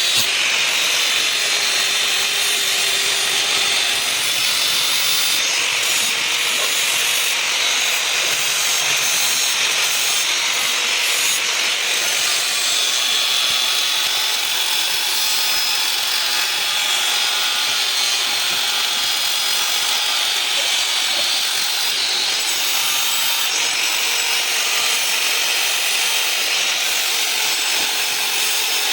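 Steady abrasive hiss of a metal shaft being worked on in a repair shop, with faint high whistling tones running through it.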